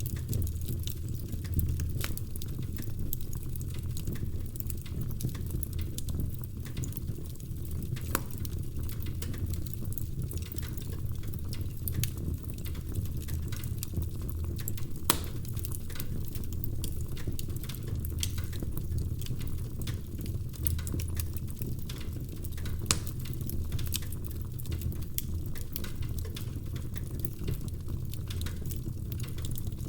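Wood logs burning in a fireplace: a steady low rumble of the fire with frequent short crackles and pops. A few louder pops stand out at scattered moments.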